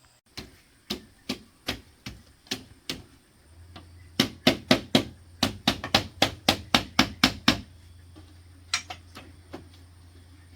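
Hammer blows on bamboo during wall building: a steady series of strikes at about two or three a second, then a quicker, louder run of about a dozen strikes, and a few last taps near the end.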